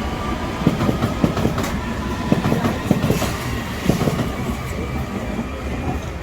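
London Underground District Line train moving past, its wheels clacking over the rail joints in an irregular run of knocks over a steady rumble, with a faint motor whine. The sound eases off near the end.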